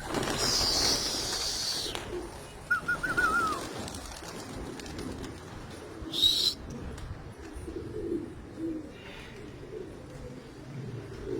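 Domestic pigeons cooing softly and repeatedly. There is a loud rushing noise in the first couple of seconds and a short warbled chirp about three seconds in.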